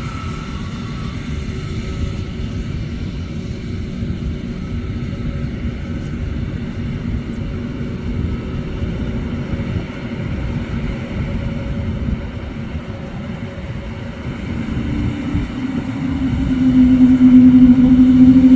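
Jet engines of a Cathay Pacific Boeing 777-300 running with a steady low rumble. About fifteen seconds in, a humming tone comes in and the sound grows much louder.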